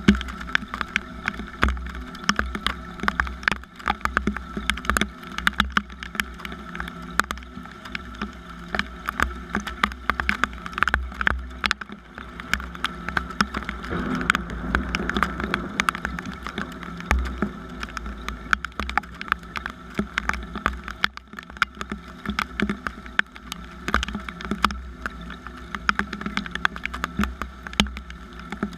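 Steady rain, with many irregular drops ticking sharply on a nearby surface over a low rumble.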